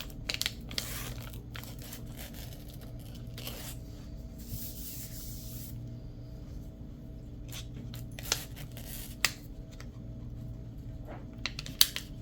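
Craft materials being handled on a worktable: scattered rustles and light clicks, with one rasping, tearing sound lasting about a second near the middle, over a steady low electrical hum.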